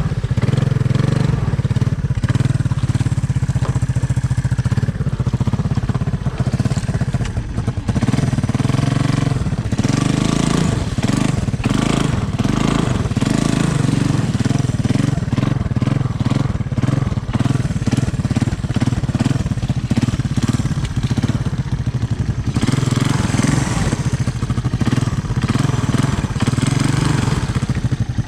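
Honda ATC 200M three-wheeler's single-cylinder four-stroke engine running under way, a steady low note that pulses unevenly from about ten seconds in as the throttle is worked.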